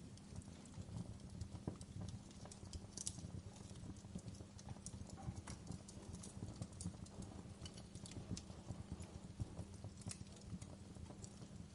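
Wood fire crackling in a fireplace: irregular sharp pops and snaps of burning logs over a low, steady rumble of flame.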